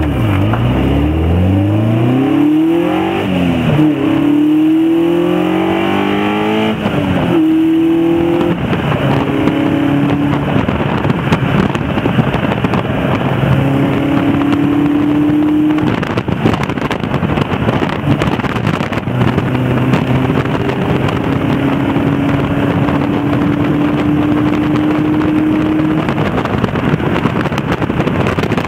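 Caterham Seven's engine accelerating through the gears, its pitch climbing and dropping back at each upshift over the first eight seconds or so, then running at a steady cruise. Wind and road noise come through the open cockpit.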